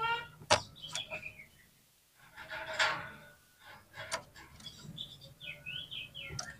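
Oriental magpie-robin singing a varied song of sharp clicks, short whistled notes and glides, with a harsh rasping note about halfway through.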